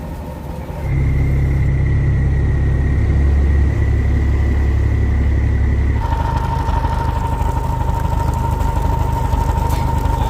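Boat engine running steadily. About a second in it gets louder with a strong low drone, and about six seconds in the drone drops back and its steady whine shifts lower in pitch.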